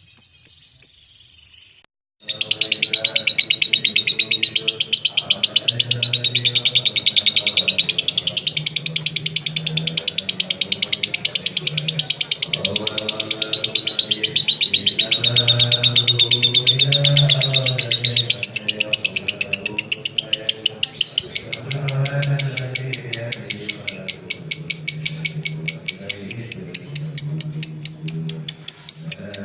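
Lovebird in 'ngekek': a long, unbroken, very rapid high chattering trill. A few short chirps and a brief pause come first; the trill begins about two seconds in and runs on without a break.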